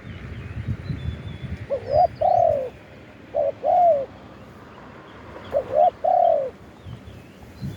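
Spotted dove cooing: three phrases, each one or two short coos followed by a longer coo that falls in pitch.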